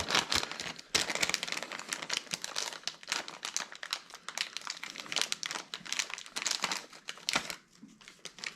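Plastic packaging crinkling and rustling as it is handled, a dense crackle of small clicks that dies away about seven and a half seconds in.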